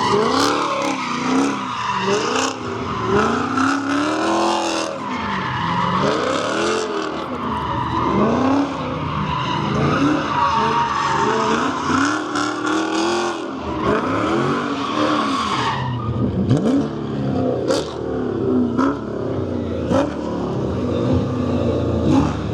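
A car drifting: the engine revs rise and fall again and again while the tyres squeal and skid. The tyre squeal eases about sixteen seconds in, and the engine keeps revving.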